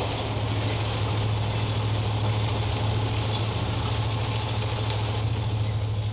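Passenger train running at speed, heard from inside a carriage: a steady, even rumble with a constant low hum.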